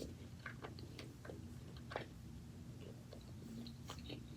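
Close-miked chewing: faint, scattered mouth clicks and small wet smacks, a few a second, over a low steady hum.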